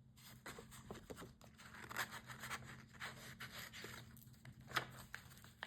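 Paper pages of a handmade journal being handled and turned: soft, scattered rustling and light taps, with one sharper click near the end.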